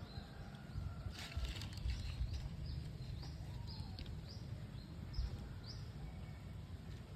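White-breasted woodswallows calling: a series of short, high, upward-sweeping calls, several a second at times, with a brief noisy burst about a second in.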